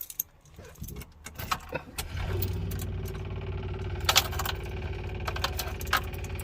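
Keys jangling in the ignition, then about two seconds in the Classic Mini 1380's electric fuel pump starts running with a steady, fast-ticking hum as the ignition is switched on. The pump sounds a bit loud and is priming a car that has stood for a week, with little fuel in the tank.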